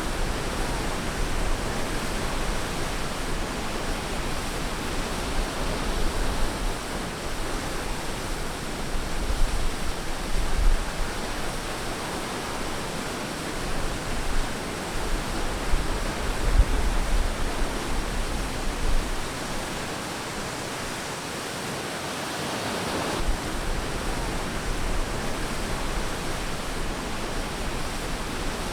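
Ocean surf washing onto a beach: a continuous rush of waves that swells and eases, with a low rumble in the heavier surges.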